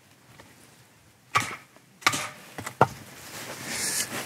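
Single-bevel Japanese nata being struck into a log of firewood: three sharp wooden knocks, about a second and a half in, at two seconds and near three seconds, with small ticks between them.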